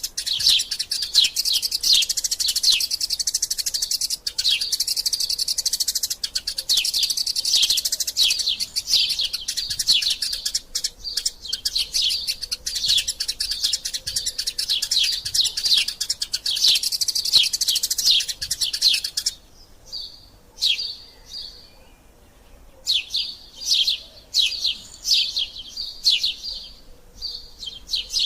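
Eurasian tree sparrows chirping in a dense, rapid, unbroken stream of sharp chirps, the agitated calling of sparrows fighting. About two-thirds of the way through it cuts off abruptly, giving way to sparser runs of chirps with short pauses between them.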